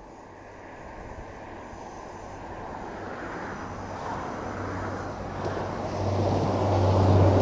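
Diesel multiple-unit passenger train approaching and passing close by, its engine hum and wheel-on-rail noise growing steadily louder, loudest near the end.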